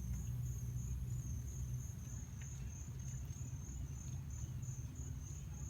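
An insect chirping in a high, rapid, even pulse of several chirps a second, over a low rumble.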